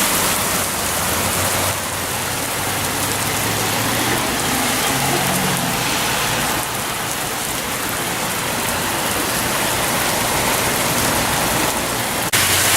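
Heavy rain pouring down in a steady hiss, with a sudden jump in loudness shortly before the end.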